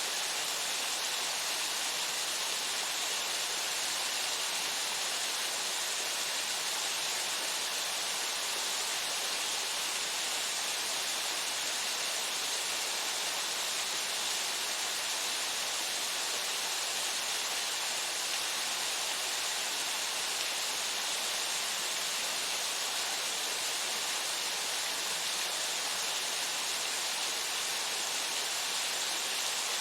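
Waterfall pouring steadily into its pool: an even, unbroken rushing hiss of falling water.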